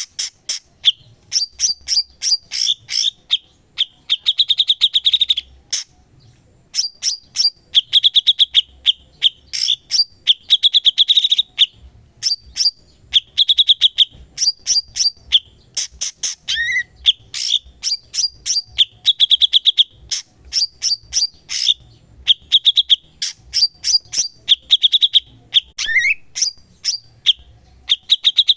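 A cucak cungkok singing in full voice. It gives a continuous run of fast, chattering phrases of rapid clicks and buzzy trills, each about a second or two long, with short gaps between them.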